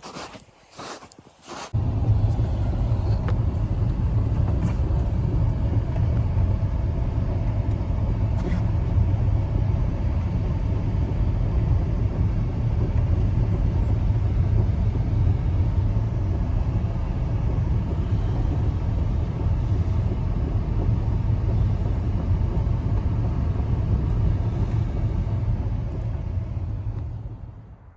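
A steady, loud low rumble that cuts in abruptly about two seconds in and fades out near the end.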